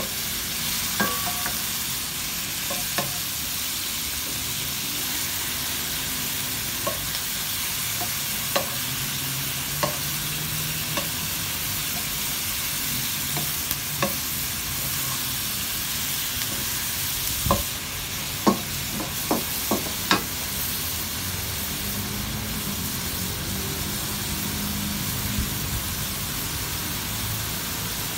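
Shrimp and garlic sizzling steadily in a hot nonstick wok as a wooden spatula stirs them, with scattered taps and scrapes of the spatula on the pan. A quick run of several louder knocks comes about two-thirds of the way through.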